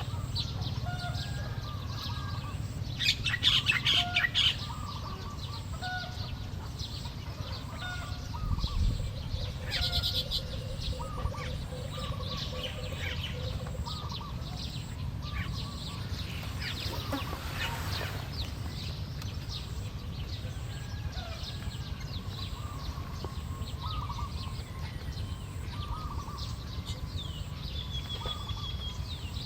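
Weaver birds chirping and chattering in short, scattered calls, with a louder buzzy burst of chatter about three seconds in and another near ten seconds.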